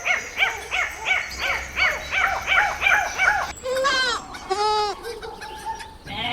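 A dog yipping in a quick, even run of high yips, about four a second, that cuts off suddenly about three and a half seconds in. Two longer calls from a different animal follow about a second apart.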